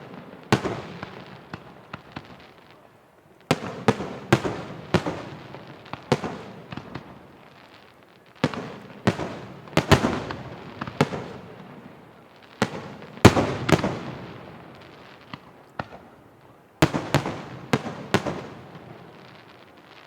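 Large aerial firework shells bursting in volleys: clusters of sharp bangs every few seconds, each bang trailing off in a long echoing rumble.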